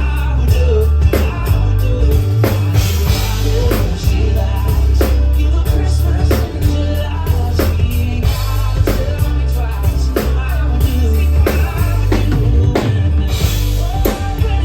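A live band playing a song with drum kit and heavy bass, the drums keeping a steady beat, heard loud through a sound system.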